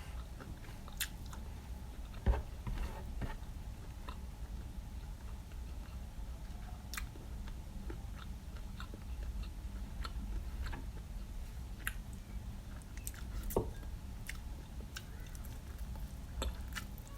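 Close-miked eating: chewing and biting of food, with scattered small crunches and clicks. There is a louder knock a little after two seconds and another near the end.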